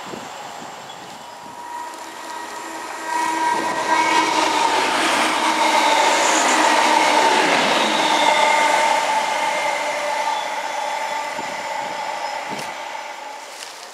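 TransPennine Express diesel multiple unit passing along the platform, with a steady hum. The sound swells about three seconds in, is loudest in the middle, then fades as the train moves away.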